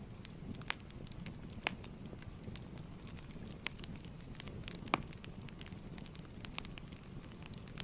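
Fireplace crackling: a steady low rumble of burning wood with irregular sharp pops and snaps, one louder pop about five seconds in.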